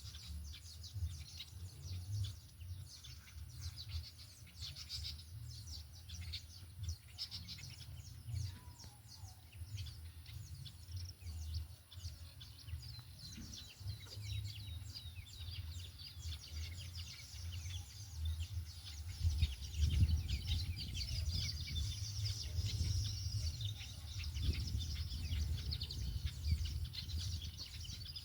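Small birds chirping and twittering rapidly, over an uneven low rumbling noise that swells about twenty seconds in.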